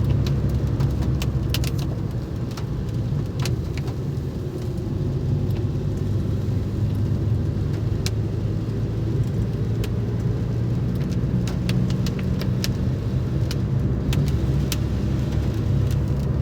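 Car driving along with a steady low engine and road rumble, and scattered sharp ticks and rattles.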